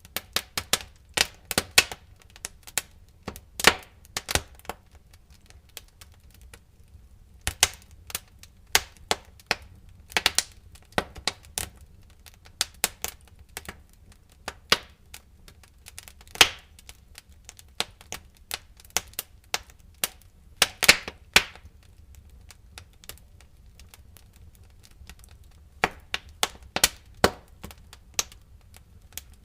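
Wood fire crackling in a fireplace: irregular sharp pops and snaps, some in quick clusters, with a couple of quieter stretches of a few seconds, over a faint low rumble.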